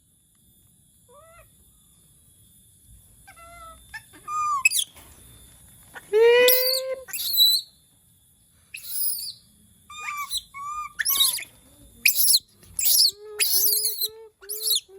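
A pet monkey giving a series of high-pitched squealing calls, some drawn out and falling in pitch, starting faint and growing loud from about four seconds in, ending with a quick run of five short repeated calls.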